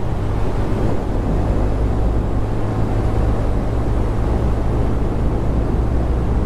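Honda Grom 125's single-cylinder four-stroke engine running at a steady pitch while riding, over a steady rushing noise.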